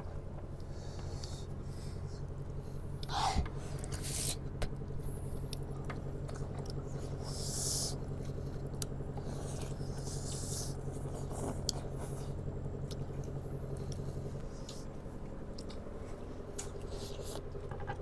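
People eating noodles: chewing, with short noisy bursts and clicks of a utensil scraping the bowl every few seconds, over a steady low hum.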